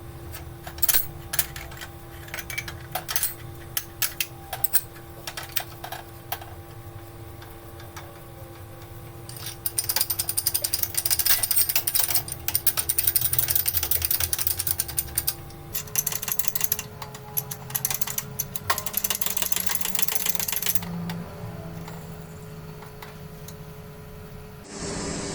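Metal parts being knocked and handled in a workshop, with scattered sharp clicks and knocks. Then two long stretches of fast, loud mechanical rattling from a power tool working on metal, over a steady hum.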